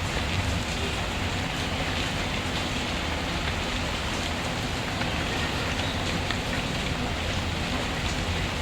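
Steady rainfall, a dense even hiss, mixed with a wood fire whose faint scattered crackles tick through it.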